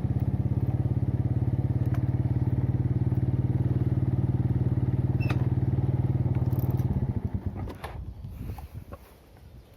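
A small engine running steadily at an even speed, falling away about seven seconds in, leaving scattered knocks and crackles.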